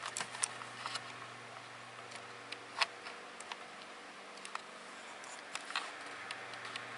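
Faint, irregular clicks and scratches of a cotton swab being worked over the coils of a box fan motor, with a steady low hum from a machine running in the background.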